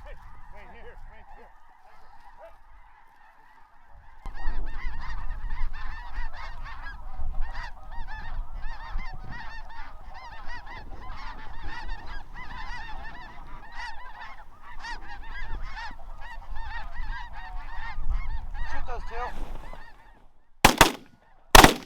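A large flock of snow geese calling all at once, a dense continuous din of high honks that swells about four seconds in. Near the end come two loud shotgun blasts about a second apart.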